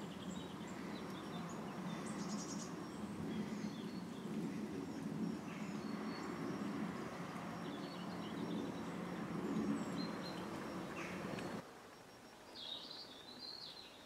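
Small birds calling: scattered brief high chirps and twitters over a steady low background rumble. The rumble drops away suddenly near the end, and a louder twittering call follows.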